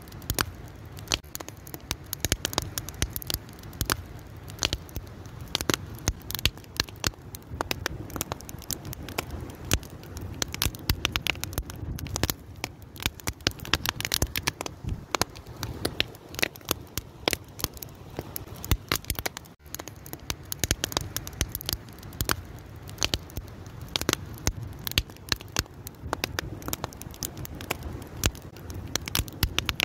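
Fire burning and crackling, with dense irregular sharp pops over a low steady rumble. The sound dips out briefly about two-thirds of the way through.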